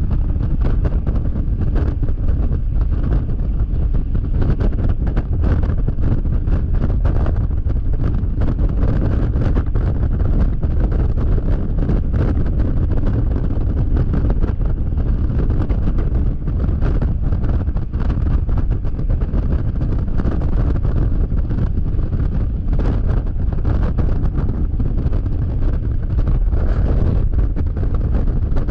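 Wind buffeting the camera microphone on a Yamaha XMAX scooter ridden at highway speed: a loud, steady low rumble with a constant rapid flutter, blended with the vehicle's running noise.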